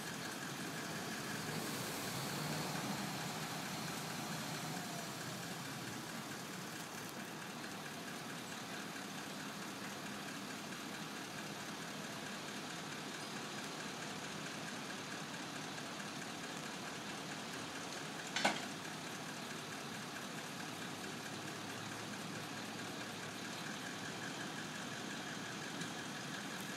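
Crane truck's engine running steadily at idle, with a single sharp knock about two-thirds of the way through.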